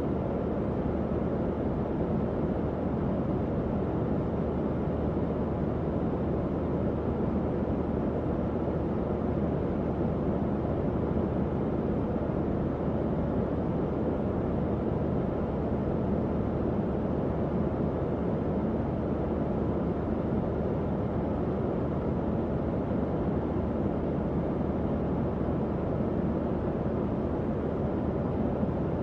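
Tower fan running steadily: an even, unbroken whoosh of moving air, mostly low and mid in pitch, with a faint low motor hum beneath it.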